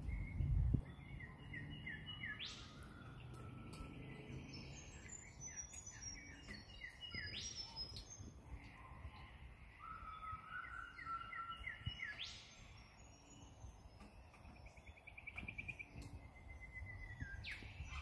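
Several wild birds calling together in a morning chorus: runs of short chirping notes, and a call that sweeps sharply upward in pitch about every five seconds. A low rumble sounds in the first second.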